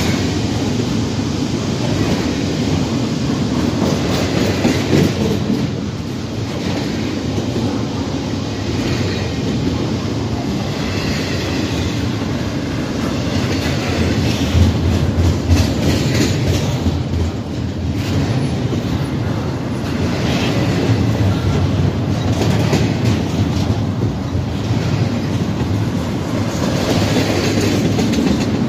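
Norfolk Southern double-stack intermodal freight train's container cars rolling past: a steady, loud rumble and clickety-clack of steel wheels on the rails, with a higher hiss rising and falling every few seconds.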